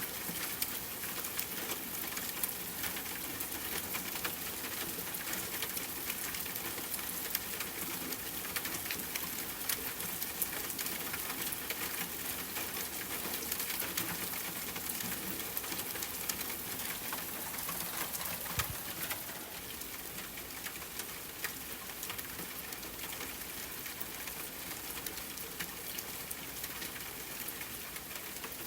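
Steady rain falling, a constant hiss with many scattered sharp drop ticks, a little softer from about two-thirds of the way in.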